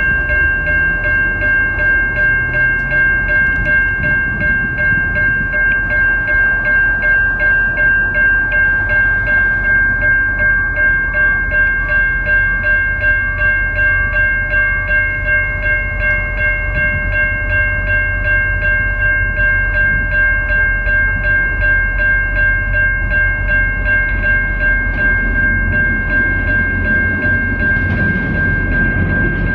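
Level-crossing warning bell ringing steadily, about two strokes a second, over the low rumble of a train moving past the crossing.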